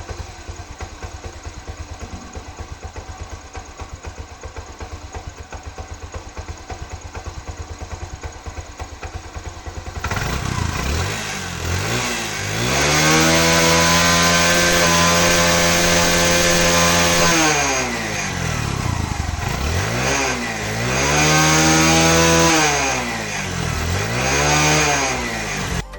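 TVS Star Sport ES motorcycle's single-cylinder engine idling with an even pulse. About ten seconds in it is revved up and held high for several seconds, drops back to idle, then is revved twice more, more briefly, near the end.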